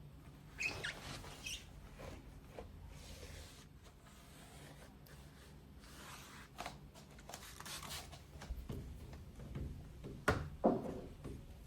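Light household handling sounds: scattered rubs, rustles and small clicks, with a couple of sharper knocks about ten seconds in.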